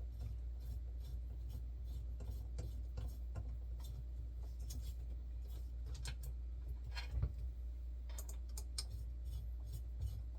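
3D printer parts being handled and screwed together by hand: scattered light clicks, rubbing and scraping, with one louder knock about seven seconds in, over a steady low hum.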